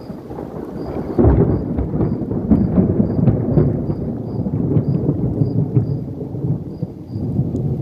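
Thunder rumbling long and loud from the storm cell producing a tornado funnel, swelling up and breaking into a heavier crackling peal about a second in.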